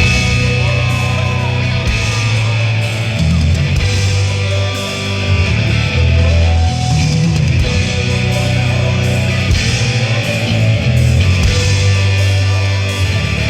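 Amplified rock music with distorted electric guitar and a heavy bass line, an instrumental stretch with no singing.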